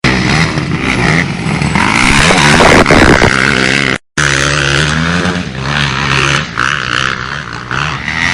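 Motocross dirt bike engines revving hard, pitch rising and falling as the throttle opens and closes, with a brief silent break about halfway through.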